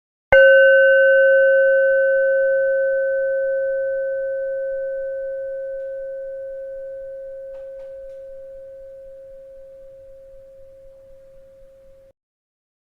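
A single bell strike that rings on as a steady tone with a few fainter, higher overtones, fading slowly for about twelve seconds before cutting off abruptly.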